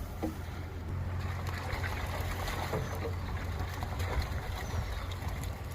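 Water rushing and splashing as hatchery trout are poured into the river, over a steady low rumble.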